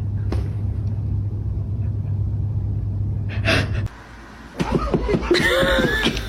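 A steady low rumble for about four seconds, then after a brief break a quick run of short, high cries that rise and fall in pitch: an animal whimpering or yelping.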